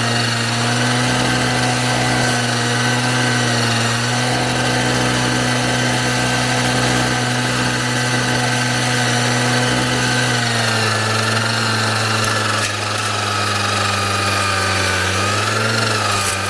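Engine of a self-propelled mower running steadily. Its pitch drops a little about ten seconds in and dips briefly again near the end.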